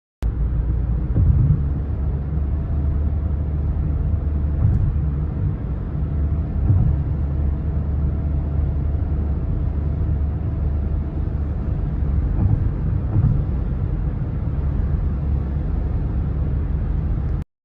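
A steady low rumble that starts and stops abruptly, with a few soft swells.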